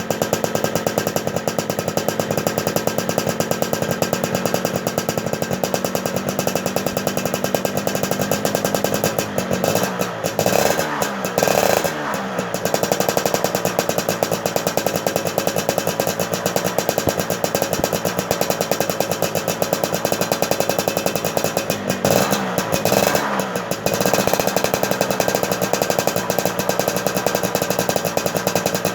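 Motorcycle engine running with a rapid, rattly firing, its revs dipping and picking back up about ten seconds in and again about twenty-two seconds in; the engine has been started after standing unused for a month.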